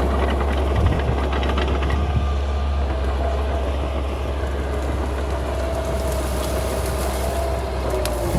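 Bulldozer's diesel engine running steadily under load, with a wavering high whine and a spell of metallic clatter about one to two seconds in.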